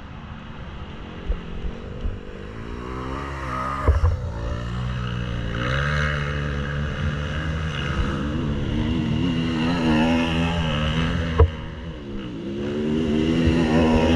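Motocross bike engine revving up and down over and over, its pitch climbing and dropping as it accelerates and shifts. There is a sharp knock about four seconds in and another just past eleven seconds.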